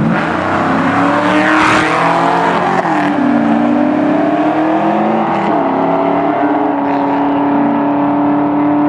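Muscle car engines running at full throttle as the cars accelerate hard past, loudest about a second and a half in. The engine note drops at a gear change about three seconds in, then climbs again and holds.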